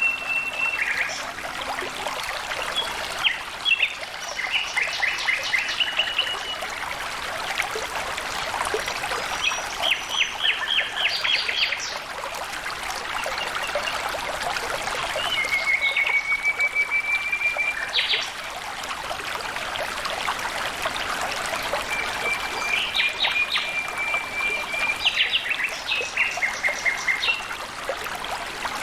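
Water trickling and flowing steadily, with a bird calling over it again and again: quick runs of rapid high chirps and a few drawn-out whistled trills.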